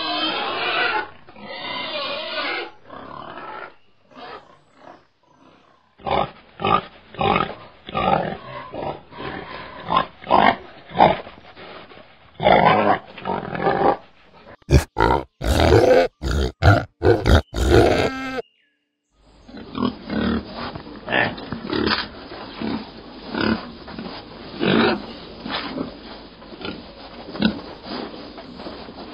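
Domestic pigs grunting: many short, separate grunts in several spliced stretches, with a moment of dead silence about two-thirds of the way through.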